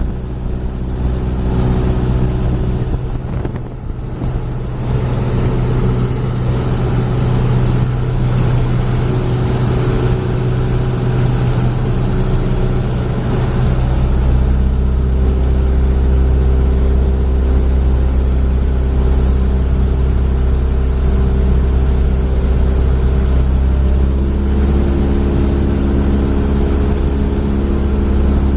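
Aircraft engines droning steadily with a high hiss over them; the low drone grows stronger about fourteen seconds in, and its pitch shifts again near the end.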